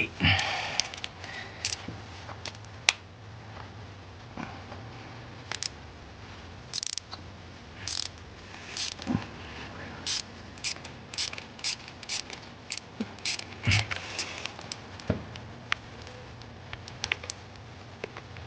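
Hand tools clicking, tapping and scraping on metal engine parts, in irregular short strikes with a few louder knocks.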